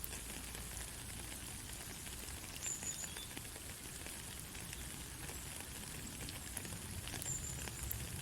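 Steady rain falling, an even hiss with a low rumble and many scattered drop ticks. Two brief high chirps sound, about three seconds in and again near the end.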